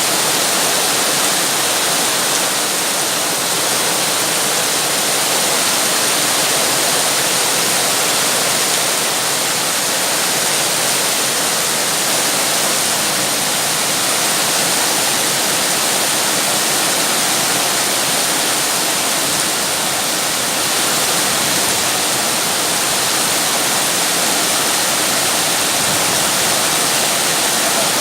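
Rain falling steadily, a dense even hiss with no distinct drops or thunder.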